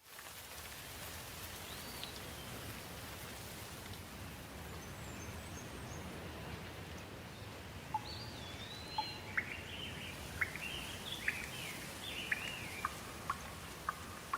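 Steady rain falling, with a single bird call near the start and birds chirping and whistling repeatedly over the rain from about halfway through.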